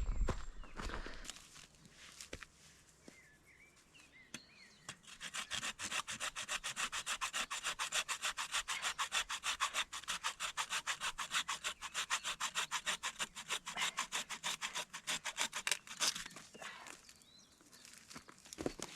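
Hand saw cutting through wood in fast, even back-and-forth strokes, about four or five a second. The sawing starts about five seconds in and stops near the end.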